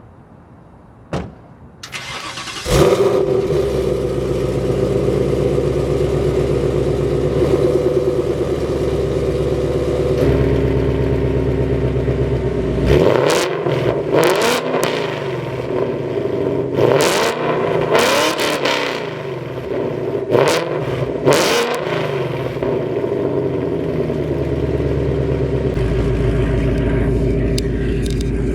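Ford Mustang GT's V8, fitted with aftermarket headers and exhaust and set to track mode, started up. There is a click, a brief crank, and the engine catches with a loud flare, then settles to idle. About halfway through come several quick throttle revs, after which it drops back to a steady idle.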